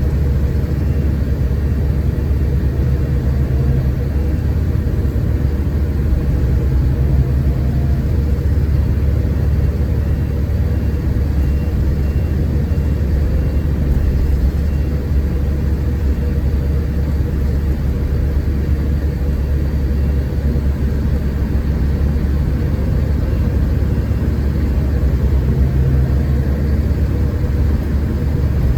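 Scania K410 coach heard from inside while on the move. Its six-cylinder diesel runs with a steady low drone under continuous road and cabin noise, and a faint low hum fades in and out a few times.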